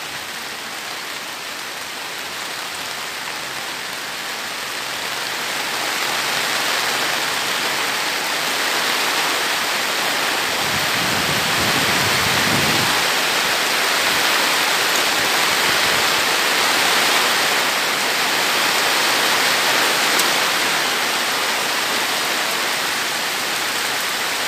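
Steady rain falling as an even hiss that grows heavier about six seconds in, with a brief low rumble near the middle.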